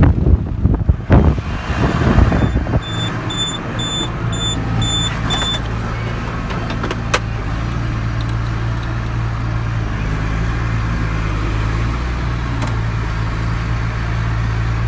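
Tractor engine running steadily, driving the grain bag unloader and auger. Wind buffets the microphone for the first couple of seconds, and a series of six short high beeps sounds a few seconds in.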